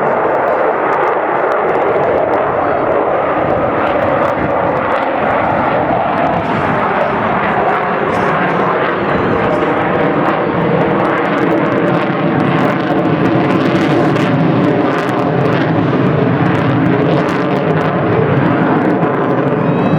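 Avro Vulcan bomber's four Olympus turbojet engines running loud in a display flight: a continuous jet rush, with steadier engine tones coming through more strongly in the second half.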